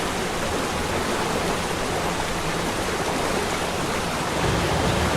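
Waterfall: a steady rush of falling water, a little fuller and louder about four seconds in.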